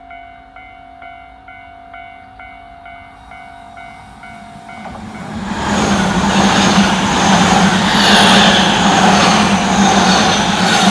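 A railway level-crossing warning bell rings about twice a second. From about five seconds in, a Tobu 100 series Spacia electric express train passes close by at speed, its running noise on the rails drowning the bell.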